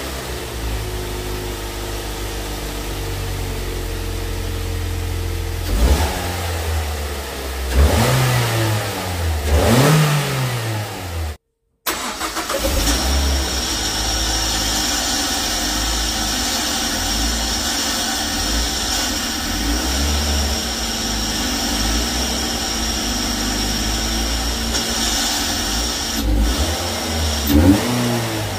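Mazda 6 engine idling with its stock air box and blipped three times, the revs rising and falling. After a cut, the same engine idles with a cone air filter fitted, a little louder, with a short rev near the end. The owner calls the cone-filter sound awful and says the engine was juddering.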